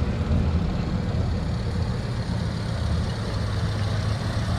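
A vehicle engine idling nearby: a steady low rumble.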